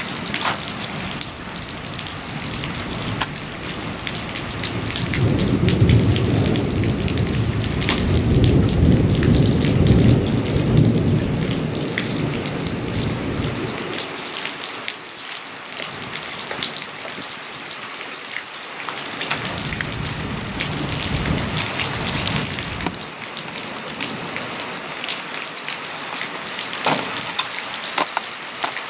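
Rain falling steadily, with individual drops ticking close by. A long low rumble of thunder swells about five seconds in and dies away after about eight seconds, with a fainter rumble later on.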